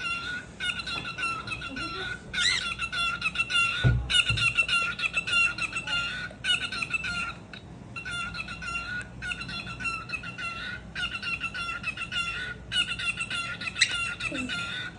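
Cockatiel chattering and squawking without pause, in rapid warbling phrases of about a second each with brief gaps between them. A low thump about four seconds in.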